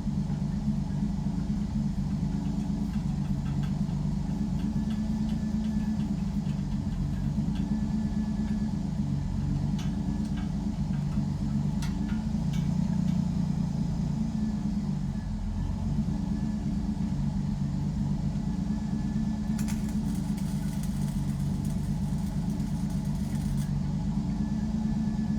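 Pontiac Fiero engine idling steadily, a car with a misfire and bog that the owner is trying to trace.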